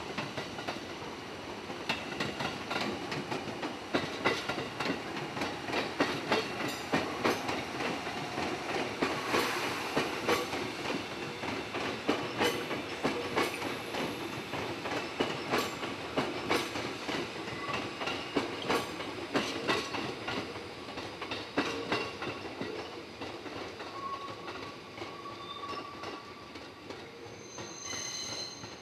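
211 series electric train running into the station, its wheels clattering over rail joints and points in an uneven run of clicks and knocks. Near the end, thin wheel squeals set in.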